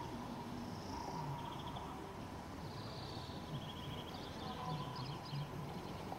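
Outdoor street ambience: small birds chirping and trilling in short repeated phrases over a steady low background noise.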